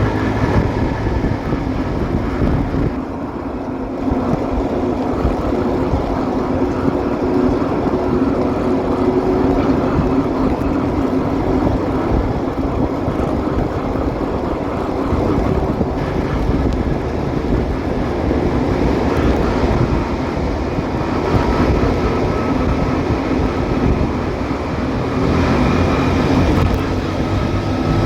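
Motorcycle engine running steadily on the move, its note shifting slightly with throttle, under a constant rush of road and wind noise; the level drops briefly about three seconds in.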